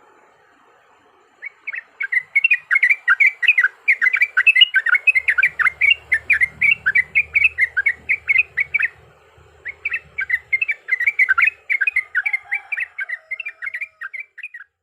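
Yellow-vented bulbul (trucukan) giving fast, chattering bursts of short notes, the excited 'fighting' song used as a lure; it starts about a second and a half in and breaks off briefly near the middle.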